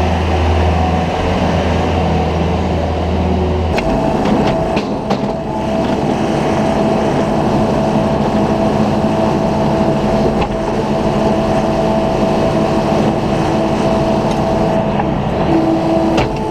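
Farm vehicle engine running steadily as the machine scrapes and pushes manure along a barn alley. About four seconds in, the low engine hum gives way to a noisier scraping sound with a few sharp knocks and a steady whine.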